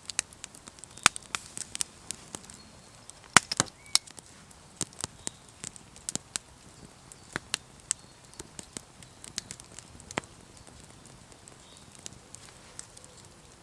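Campfire wood crackling and popping in irregular sharp snaps, a few loud ones among many small ones, thinning out over the last few seconds.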